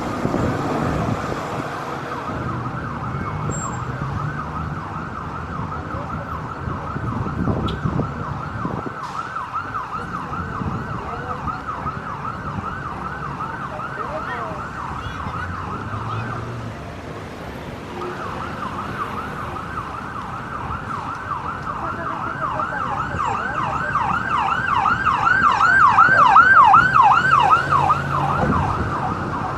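Emergency vehicle siren in a fast yelp, sweeping up and down about three times a second over street traffic. It breaks off briefly about halfway, then resumes and grows louder toward the end as it draws near.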